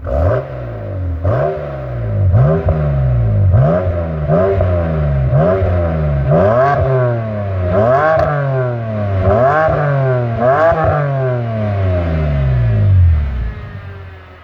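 BMW 630i's naturally aspirated straight-six blipped about ten times in quick succession, each rev rising sharply and sliding back down, through a muffler-delete exhaust with the middle and rear mufflers emptied. The revs die away near the end.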